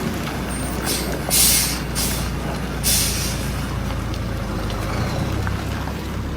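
Heavy truck's diesel engine running steadily with a low rumble, with two short hisses of air being let out of its air system, about a second and a half in and again about three seconds in.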